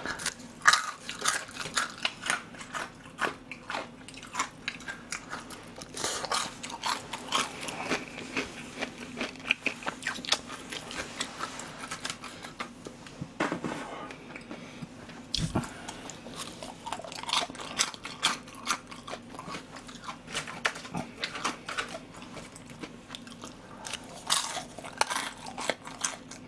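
Close-miked eating of soy-sauce-glazed batter-fried pork (tangsuyuk): crisp biting and chewing crunches in quick, uneven succession, pausing briefly a little past halfway.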